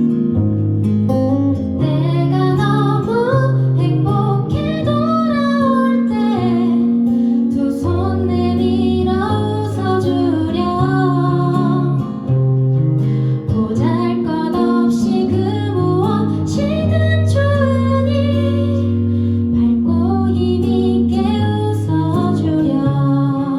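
Live acoustic guitar accompaniment with a voice singing a slow melody over it.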